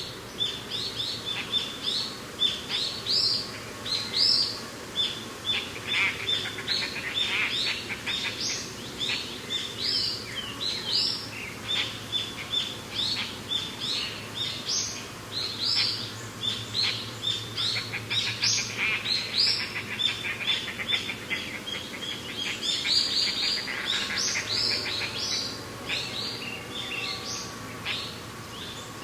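A dense chorus of small birds chirping: many short, quick calls overlapping with no break.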